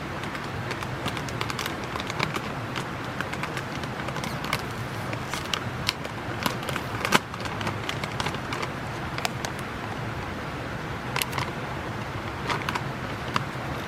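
Wood campfire burning, crackling with irregular sharp pops, one louder pop about halfway through, over a steady low background rumble.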